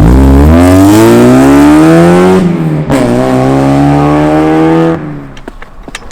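Mazda Miata's four-cylinder engine with a loud aftermarket exhaust, accelerating hard with its pitch climbing. There is a short break around two and a half seconds in, like a gear change, then a second climb, and it cuts back suddenly about five seconds in.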